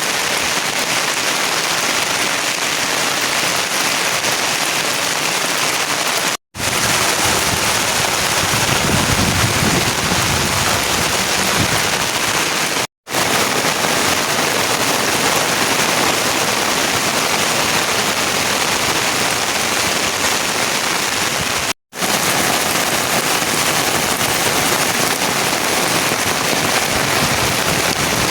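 Heavy, steady rain falling, a dense even hiss, cut off by three brief silent gaps between shots.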